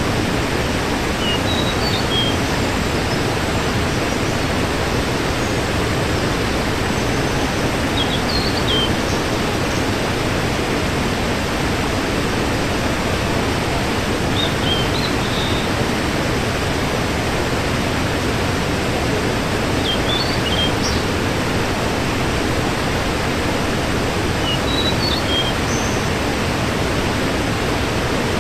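Waterfall rushing steadily, with short high chirps about every six seconds over it.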